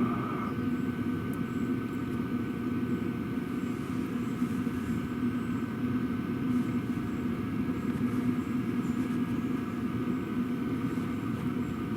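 Diesel parking heater running steadily, its exhaust a low rumble with a faint steady high tone above it. The exhaust passes through a Chinese clone silencer and then a genuine Webasto silencer in series.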